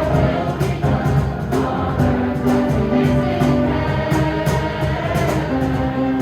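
Gospel-style choir singing with instrumental accompaniment and a steady beat.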